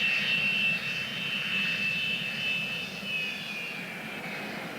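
Jet airliner engines with a steady high whine over a rushing noise, the pitch sinking slightly as the sound slowly fades.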